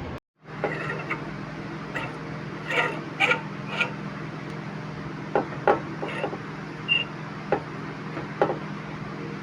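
Irregular light knocks and clicks of hand tools on metal parts, some with a brief ringing tone, over a steady low hum.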